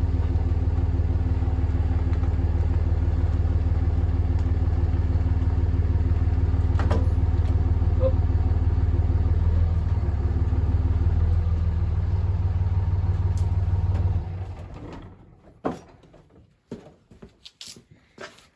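A vehicle engine running steadily at a constant speed, then stopping abruptly about fourteen seconds in; a few light clicks and knocks follow.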